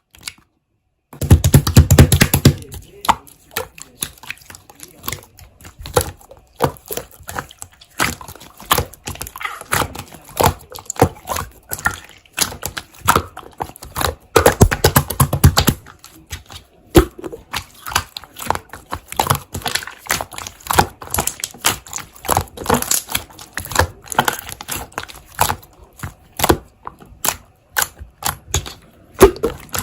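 Slime being squished, pressed and stretched by hand, giving a dense run of sharp clicks and pops, with two louder, fuller squishes, one about a second in and one about halfway.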